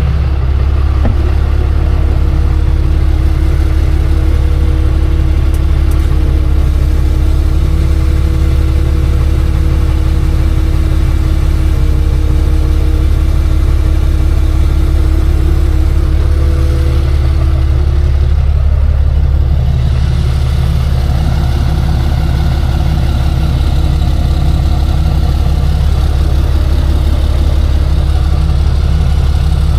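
Tow truck's engine idling steadily, a loud low hum with no change in speed.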